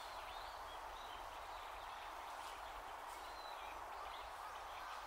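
Faint, scattered short bird chirps over a steady outdoor background hiss.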